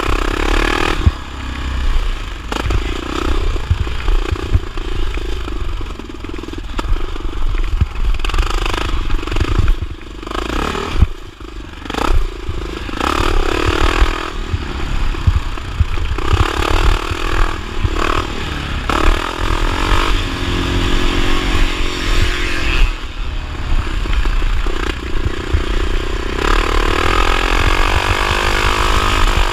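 1979 Honda XR500's single-cylinder four-stroke engine revving up and easing off again and again, with clattering knocks over rough ground.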